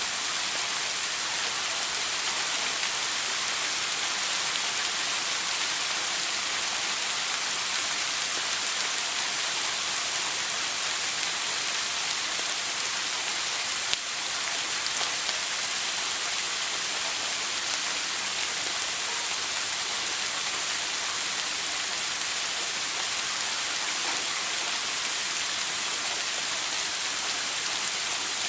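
Shower water running steadily, a continuous even hiss of spray falling on a surface.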